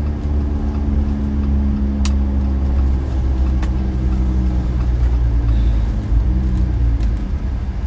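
Steady vehicle running noise heard from inside the cabin: a loud low engine-and-road rumble with a few held tones, and a couple of brief clicks.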